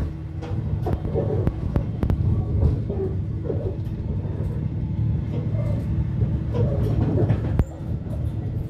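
A diesel-hauled train running along the line, heard from an open platform beside the locomotive: a steady low rumble with a faint hum, and irregular sharp clicks and clatter from the wheels on the rails.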